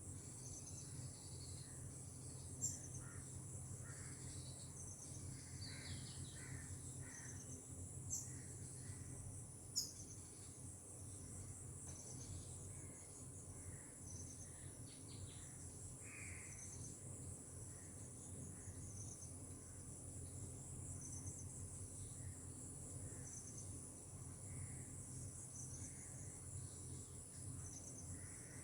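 Insects trilling steadily at a high pitch, with scattered short bird calls and chirps over them. Three brief sharp clicks in the first third.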